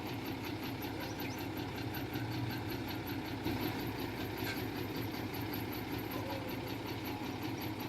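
Diesel engine of heavy earthmoving machinery running steadily at a constant pace, with no change in speed.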